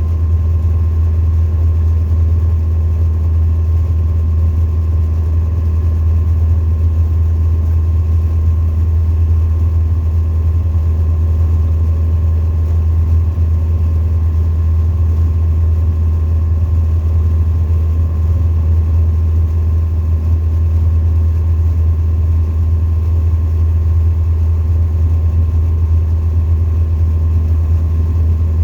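Cockpit drone of a Tecnam ultralight's engine and propeller running at steady power: a loud, unchanging low hum with a few faint steady tones above it.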